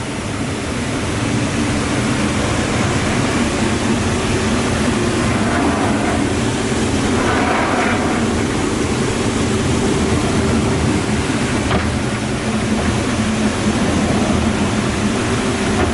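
Bürkle long belt sander running: a steady machine hum with several low tones under an even rushing noise.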